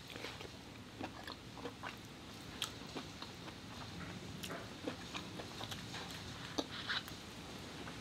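Close chewing and lip smacking on soft lobster meat and rice: a faint string of irregular wet clicks and smacks.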